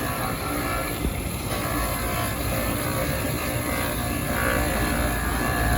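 Electric sanding machine running steadily while sanding a rubber shoe sole cut from an aircraft tyre.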